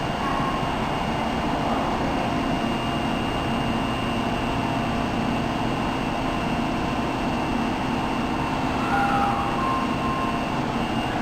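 Osaka Metro Tanimachi Line subway train running, a steady rumble with a thin high whine, and a few short higher tones about nine seconds in.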